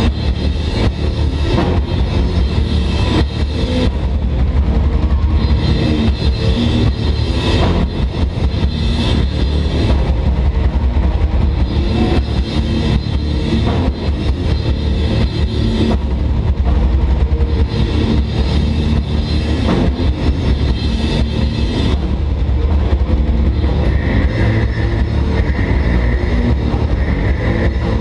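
A metal band playing live and loud: distorted guitars and bass over fast, dense drumming, forming an unbroken wall of sound with a heavy low end.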